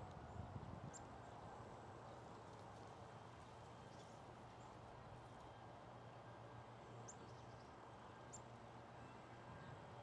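Near silence: faint outdoor hiss with a low steady hum, and about five short, faint, high bird chips scattered through.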